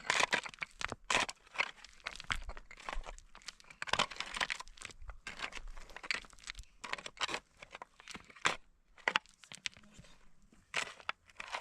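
Irregular crunching and rustling: a quick, uneven run of crackles and scrapes, with a few louder strokes.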